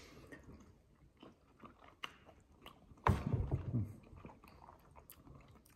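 People biting into and chewing slices of mango: faint wet mouth sounds and small clicks, with a louder stretch of chewing about three seconds in.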